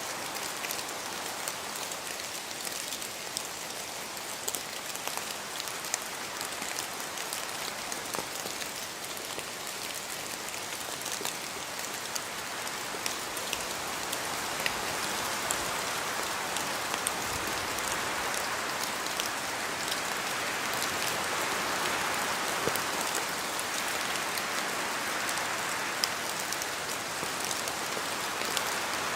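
Steady rain in a forest, a dense hiss dotted with the sharp ticks of individual drops hitting leaves and the ground. It swells louder in the second half.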